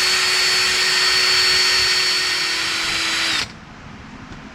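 Electric drill spinning a 3M gold sanding disc against a wristwatch face, its motor whining at a steady high pitch. About three and a half seconds in it sags slightly and stops.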